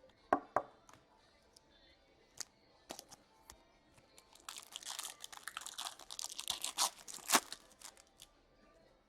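A hockey card pack wrapper being torn open and crinkled in the hands, a dense crackle lasting about three seconds with one sharper rip near the end. It is preceded by a few light taps and clicks of card handling.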